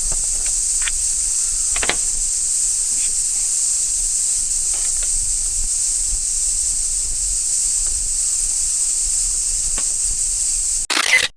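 Cicadas droning in a dense, steady, high-pitched chorus, with a few faint clicks and taps in the first two seconds. Near the end the chorus cuts off abruptly, followed by a brief loud burst of noise.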